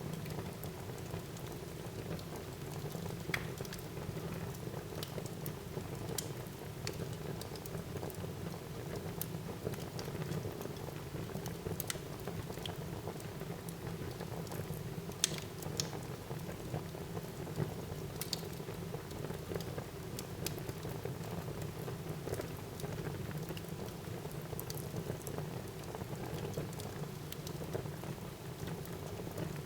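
Wood fire burning in a fireplace: a steady low rush of flames with scattered, irregular sharp crackles and pops.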